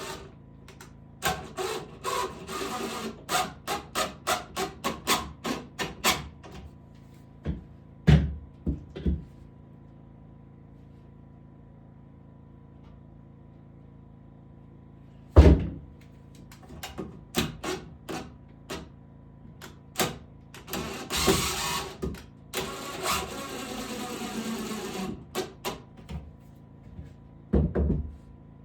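Hand woodworking: a run of quick sharp knocks, about two a second, then a few more. About halfway there is one heavy thud, and later come two stretches of rasping strokes, like wood being sawn or scraped.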